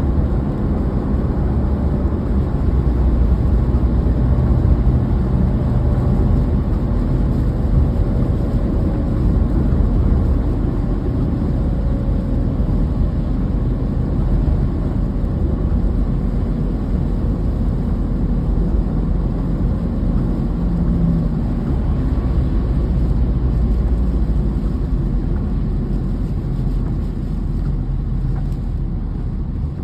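Steady low rumble of a moving car's road noise, with a faint wavering tone in the middle.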